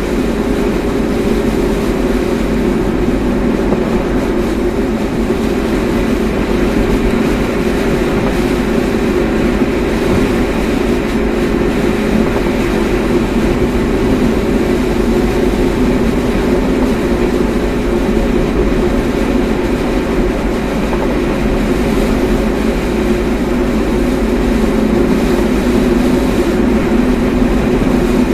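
Steady road and engine noise inside a moving car's cabin, a constant low drone with no change.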